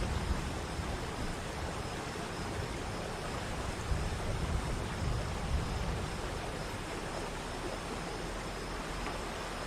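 Waterfall rushing: a steady, even roar of falling water, with some uneven low rumbling that settles about six seconds in.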